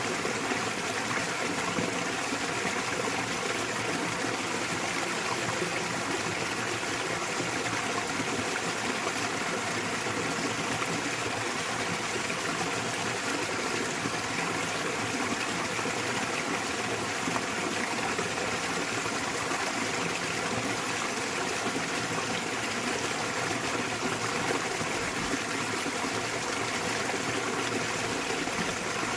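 Small waterfall and mountain stream: water splashing and rushing in a steady, unbroken flow.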